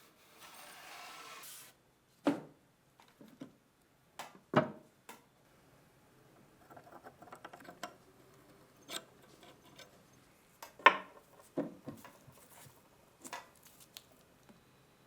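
Rusty rifle parts and tools being handled: scattered sharp clicks and light knocks at irregular intervals, after a short hiss of about a second and a half at the start.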